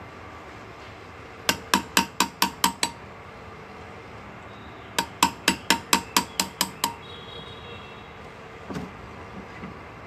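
Hand engraving: a small hammer tapping a steel graver into metal in two quick runs of sharp, ringing taps, about five a second. There are about seven taps in the first run and about ten in the second, with one faint knock near the end.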